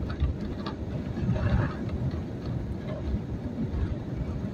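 Road and wind noise inside a truck cab at highway speed in a strong crosswind: a heavy, uneven low rumble that surges and eases.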